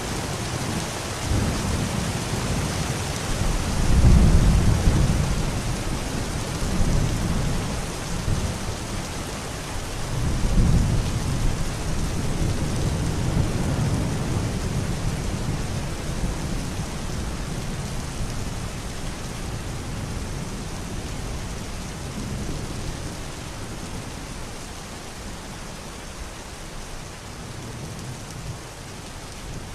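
Steady rain with low rolls of thunder, the strongest about four seconds in and again around eleven seconds, the rumbling easing off toward the end.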